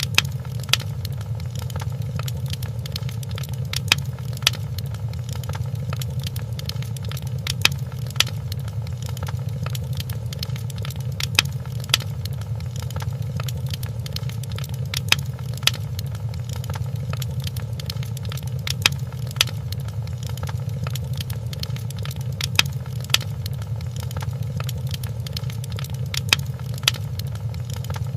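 Wood fire crackling in a fireplace: a steady low rumble of flames with constant small crackles and louder pops that come in pairs about every four seconds.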